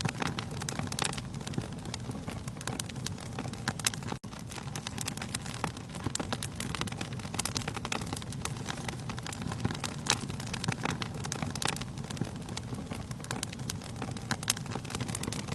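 Wood fire burning in a fireplace: a steady low rush of flames with frequent irregular crackles and pops from the burning logs. The sound cuts out for a split second about four seconds in.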